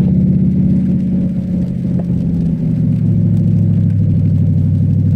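Cadillac STS-V's supercharged 4.4-litre V8 running under way. Its note drops in pitch about two to three seconds in as the revs fall, then holds steady.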